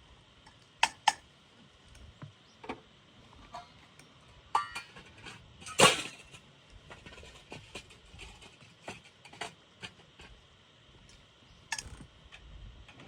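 Camp cookware and utensils clinking and knocking: a string of separate sharp clinks, the loudest about six seconds in.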